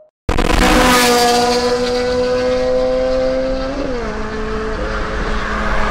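Car engine pulling hard under full throttle, its pitch climbing slowly through a gear. About four seconds in, a gear change drops the pitch and it pulls on steadily.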